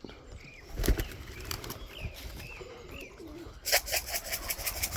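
Young tippler and dropper pigeons flying about the lofts: a wing flap about a second in and a few short calls. A rapid, even clatter of beats starts near the end.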